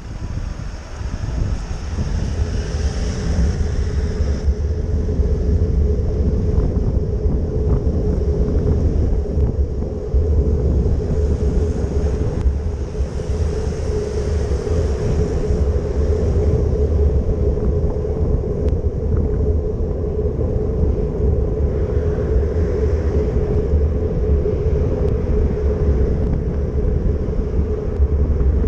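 Wind buffeting the microphone during a bicycle ride, a heavy low rumble with a steady hum running under it.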